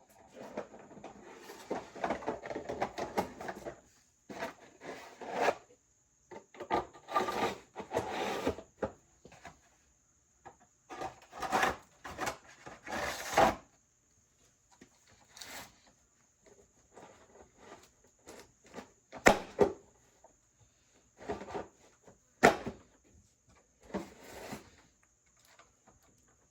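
Irregular handling noises: bursts of rubbing and scraping with a few sharp knocks, the two loudest about two-thirds of the way through. No engine is running.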